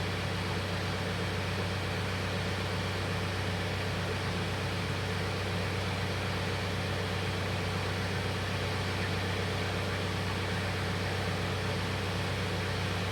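BadBoy 5045 compact tractor's engine running steadily, a constant low hum with an even fine pulse.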